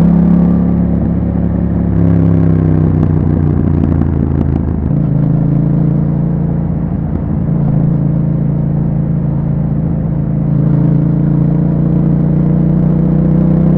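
2021 Yamaha MT-07's parallel-twin engine running through an Akrapovic exhaust with a dB killer fitted, ridden on the road. The pitch drops about two seconds in and the sound turns rougher for a few seconds, then holds steady and builds slightly near the end.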